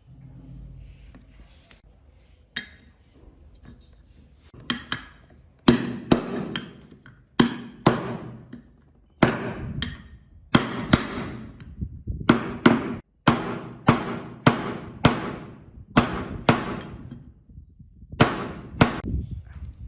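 Repeated hammer blows, irregular and often in quick pairs, each ringing briefly. A few light taps come first, then heavier strikes from about six seconds in.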